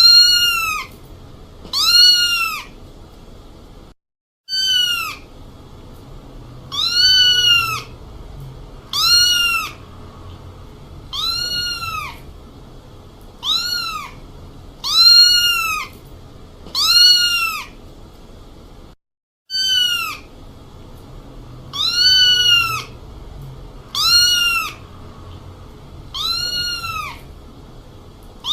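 A cat meowing over and over, the same short meow rising and falling in pitch and repeating every one and a half to two seconds as a looped sound effect. The loop breaks twice into brief moments of total silence.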